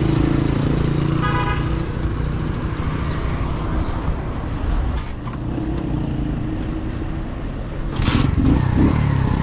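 Motorcycle engine running steadily at low revs, with a short horn toot about a second in and a louder rush of noise near the end.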